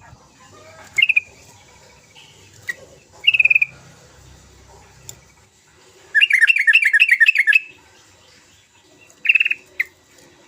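Yellow-vented bulbul calling in short bubbly phrases, with a rapid chattering run of repeated notes lasting about a second and a half in the middle.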